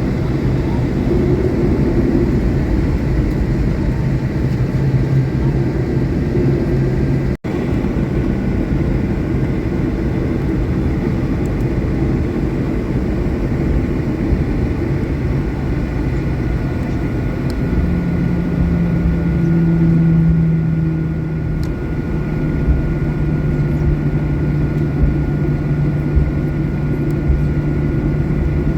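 Steady cabin noise inside a Boeing 737-800 on the ground before departure: the airliner's air and engine systems run with a continuous low hum and a faint high tone. The sound cuts out for an instant about 7 seconds in, and the low hum shifts in pitch around 18 seconds.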